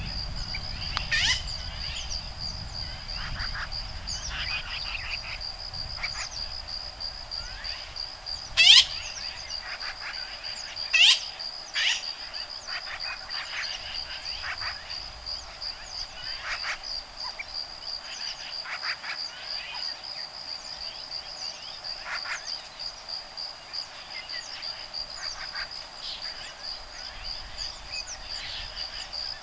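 A continuous high, finely pulsing insect trill with woodpeckers calling over it: a few loud, sharp calls about a second in and again around nine to twelve seconds in, and many softer chirps in between.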